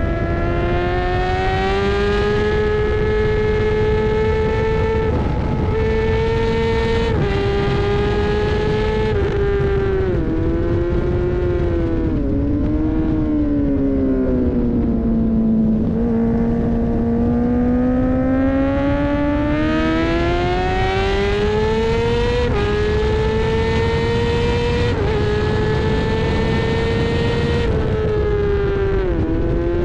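Racing motorcycle engine at full race pace, its pitch climbing and stepping through gear changes, dropping away under braking about halfway through, then pulling back up, under constant wind rush.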